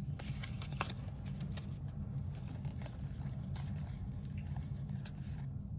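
Trading cards and a foil pack wrapper being handled, with scattered faint rustles and clicks over a steady low hum.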